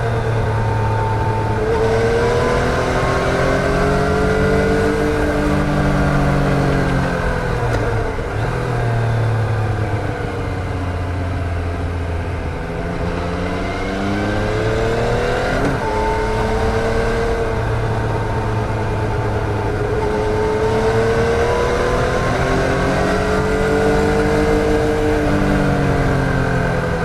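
2014 Yamaha MT-09's 847 cc inline three-cylinder engine under way, its pitch rising as it pulls and falling as it eases off, over and over. About halfway through there is a quick sharp rise in revs.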